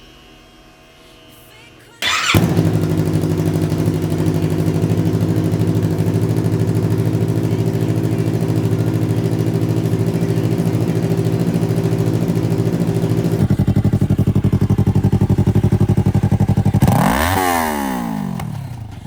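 2017 Yamaha R3's 321 cc parallel-twin engine starting about two seconds in and idling steadily through a cut-down, custom slip-on exhaust. Some eleven seconds later the idle turns lower, louder and more throbbing. Near the end there is one quick rev that rises and falls away before the engine quietens.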